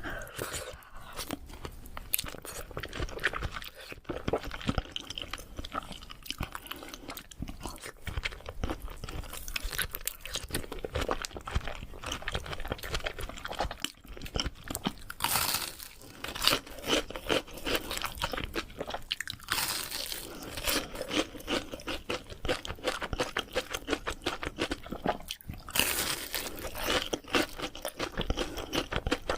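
Close-miked chewing of sushi: continuous wet, crackly mouth sounds and crunches, with a few louder stretches of bite and chew.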